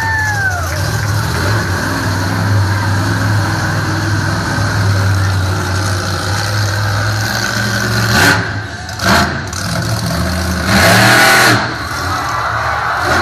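Monster truck engine running steadily and revving, with loud bursts of noise about eight, nine and eleven seconds in.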